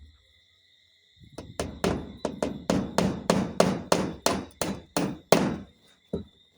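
Hammer driving nails: a run of about thirteen quick strikes, roughly three a second, followed by a couple of lighter taps near the end.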